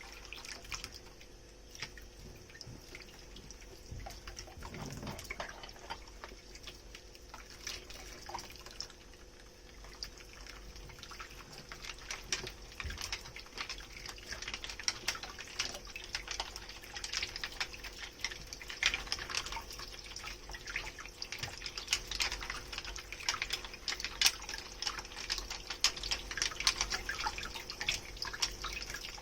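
Dishes being hand-washed at a kitchen sink: running and dripping water with many short clinks and knocks of dishes. It gets busier and louder about halfway through.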